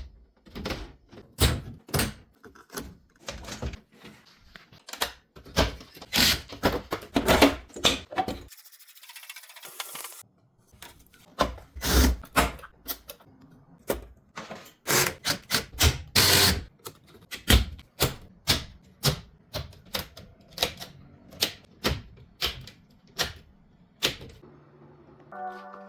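A long, irregular run of sharp clicks and knocks, often one or two a second. About eight and a half seconds in they break for a hiss that lasts about two seconds.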